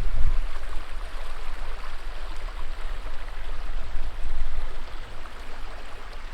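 Steady rushing noise with wind rumbling on the microphone.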